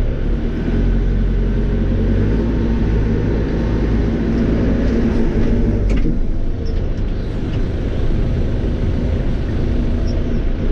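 Caterpillar 430E backhoe loader's diesel engine running steadily under work. A brief knock about six seconds in, after which the engine note changes.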